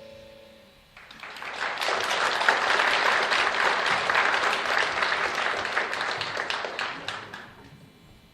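The last chord of the song rings out and dies away, then a concert audience applauds for about six seconds, the clapping thinning and fading out near the end.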